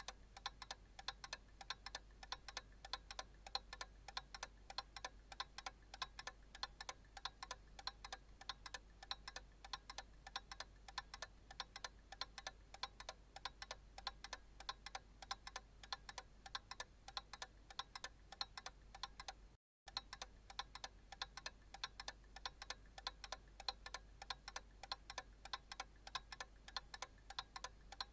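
Analog clock ticking with a steady, even beat. The ticking cuts out for a split second about twenty seconds in, then carries on.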